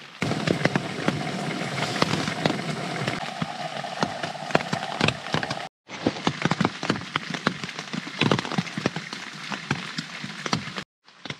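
Rain pattering on a tent, heard from inside: a steady hiss with many sharp separate drop hits. The sound cuts out briefly twice.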